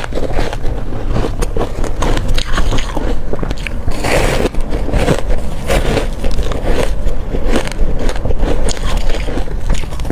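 Someone biting and chewing hard crushed ice: a steady run of sharp, crisp crunches.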